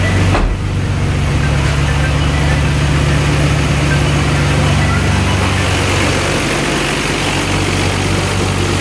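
A car door shuts with a single knock about half a second in, then a car engine idles steadily.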